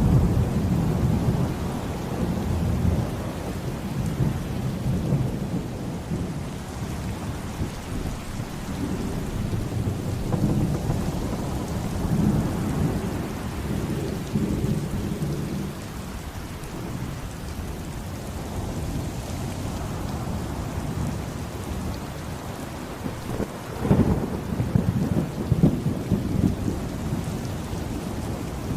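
Steady heavy rain with thunder rolling several times, a deep rumble that swells loudest at the start and again near the end.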